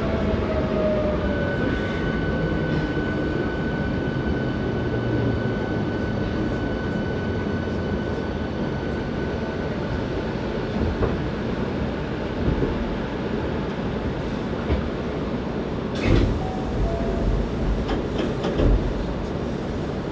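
Hankyu 7300 series electric train running, from a car noted for its unusual running noise. Its motor whine falls in pitch at first, then holds steady. In the last few seconds there is a loud rush of noise and a few low thumps of wheels over rail joints.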